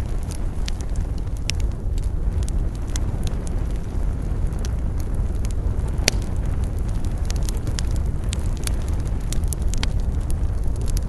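Wood campfire crackling, with irregular sharp pops, the loudest about six seconds in, over a steady low rumble.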